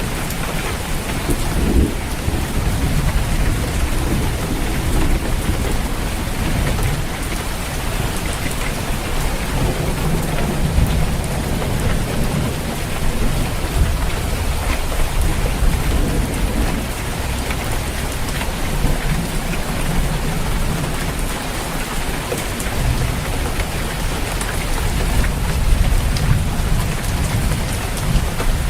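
Steady heavy rain drumming on a roof, with rolling thunder rumbling low in the background, swelling several times.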